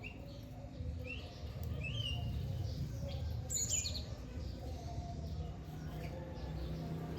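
Small birds chirping: scattered short, sharp chirps, with a quick cluster of higher, falling notes about halfway through, over a steady low rumble.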